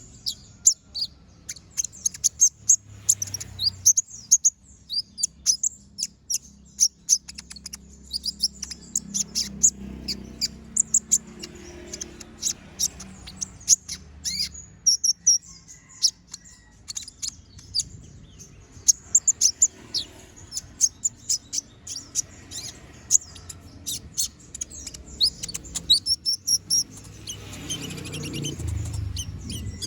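Kolibri ninja (konin) sunbird singing continuously: rapid runs of short, sharp, high-pitched chirps and trills with hardly a pause.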